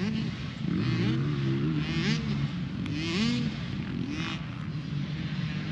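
Dirt bike engines revving on a motocross track, the pitch climbing and dropping again several times with the throttle, over a steady low engine drone.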